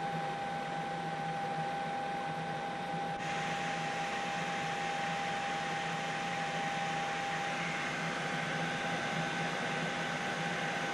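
Steady hiss from a helicopter's cabin with a constant whine, with no rhythm or change in pitch. The hiss gets brighter abruptly about three seconds in.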